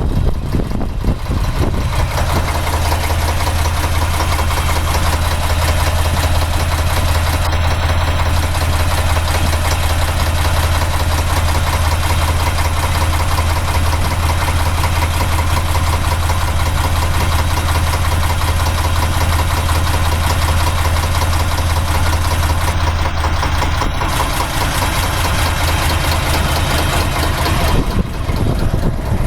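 Ruston diesel engine in a narrowboat running steadily at idle, with a deep, constant drone. The drone is strongest from about two seconds in until near the end.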